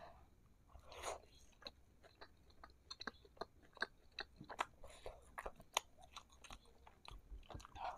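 Close-miked chewing of a fried meatball coated in spicy sauce: many small, irregular mouth clicks and smacks.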